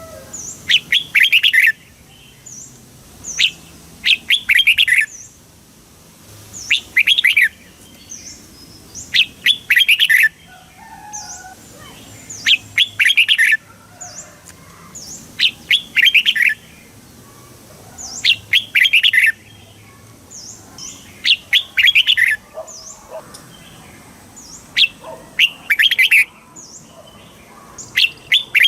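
Red-whiskered bulbul singing: short, bright, warbled phrases, each about a second long, repeated every two to three seconds, with faint high chirps between them.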